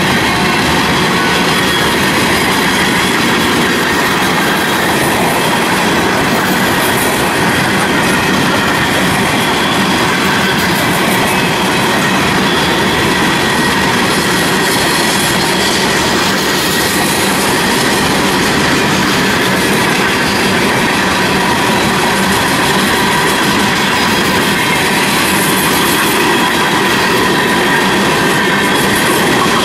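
Empty coal train cars rolling steadily past at close range: a continuous rumble and clatter of steel wheels on the rails, with a steady high-pitched wheel squeal over it.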